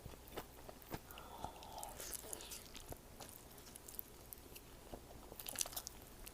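Close-miked mukbang eating: biting and chewing with wet mouth clicks and smacks, and a flurry of crisp crunchy clicks about five and a half seconds in.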